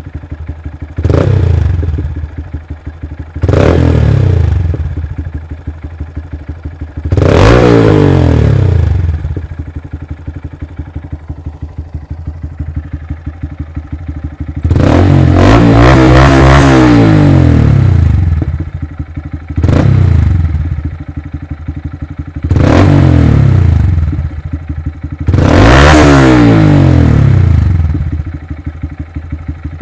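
2019 Honda Grom's 125 cc single-cylinder four-stroke engine, warmed up, idling and revved through a Yoshimura RS-2 Race Mini Works exhaust run without its dB killer. Seven rev-ups rise in pitch and fall back to idle, the longest held about three seconds midway.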